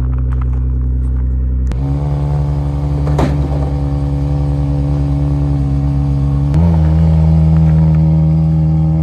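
Nissan R35 GT-R's twin-turbo V6 running at idle just after being started. The idle note steps up slightly twice.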